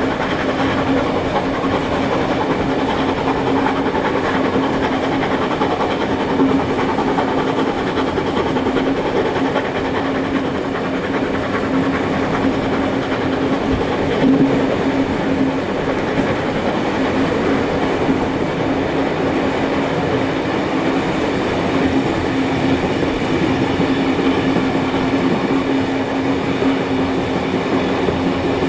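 Steam-hauled passenger train running steadily, heard from a carriage: a continuous rumble with the wheels clicking over rail joints and a steady hum underneath.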